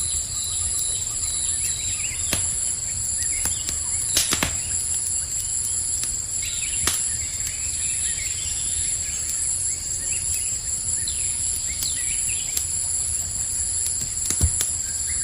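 Campfire crackling with a handful of sharp pops, over a steady high chorus of crickets; a few short bird chirps come in the middle.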